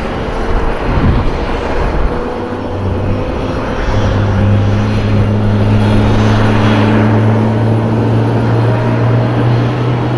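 Loud jet noise from the F-22 Raptor's twin afterburning turbofans, growing louder about four seconds in.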